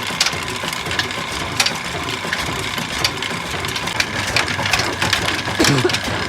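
Old black Ruston oil diesel engine running at slow speed, with a sharp knock about every two-thirds of a second over a steady mechanical clatter.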